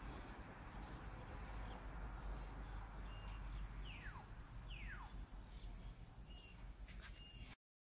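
Faint background with a steady low hum and birds calling: two quick whistles falling in pitch about four and five seconds in, and a few short high chirps. The sound cuts off abruptly near the end.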